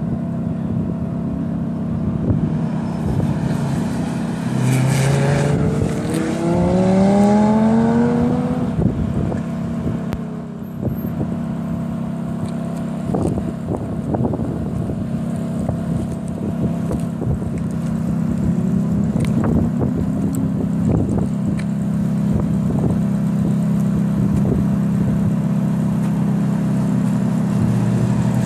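A car's engine driving a coned autocross course. Its pitch rises in several sweeps as it accelerates about five to nine seconds in, over a steady engine drone the rest of the time.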